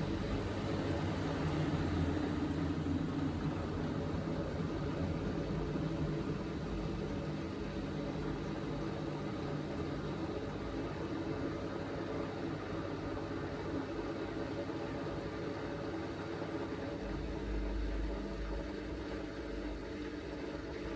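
Miele Navitronic W3985 washing machine spinning its drum in a short spin burst after the first rinse: a steady motor whir and drum rumble. A deeper rumble comes in briefly about 17 seconds in.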